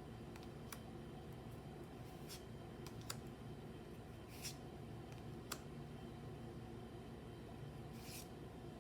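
Trading cards being handled: a few faint sharp clicks and short papery swishes as cards are slid and flicked, over a steady low hum.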